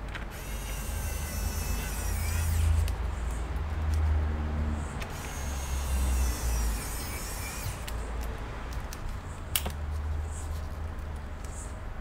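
Small electric screwdriver running in several short bursts, each with a low motor hum and a faint whine that winds down at the end, while screws in a laptop are driven. A sharp click comes near the end.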